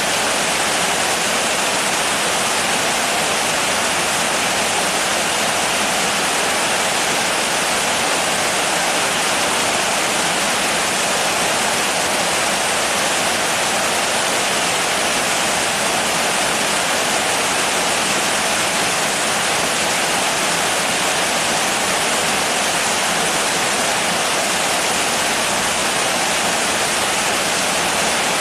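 Steady heavy rain: a dense, even hiss with no single drops or gusts standing out, unchanging throughout.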